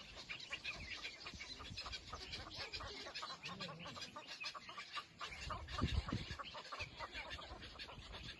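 Many small birds chirping and cheeping, with short overlapping calls. A louder low thump comes about six seconds in.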